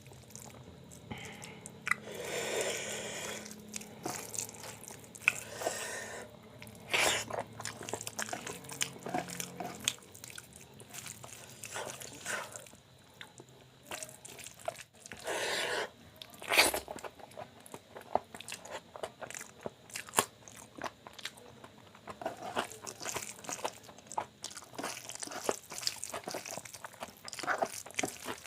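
Close-up eating sounds: chewing with crunchy bites, wet mouth smacks and sharp clicks, over and over, with a few longer, louder crunching bursts.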